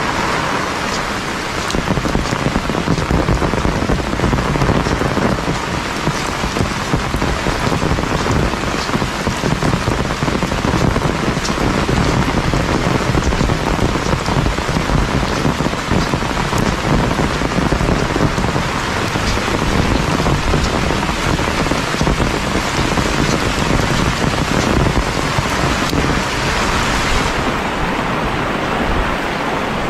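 Heavy rain pouring steadily, a dense hiss with many individual drops pattering close by.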